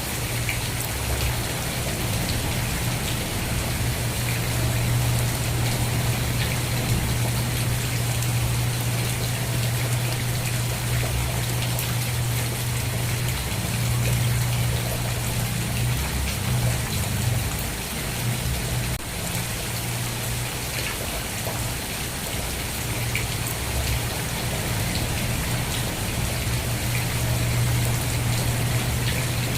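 Steady rain pattering on surfaces, an even hiss of drops, with a constant low rumble underneath that dips briefly about halfway through.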